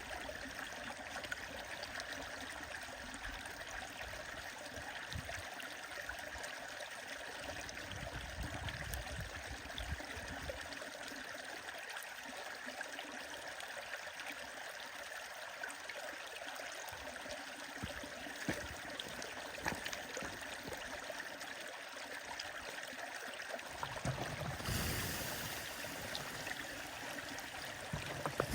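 A stream running steadily, with a bonfire crackling over it in scattered sharp pops.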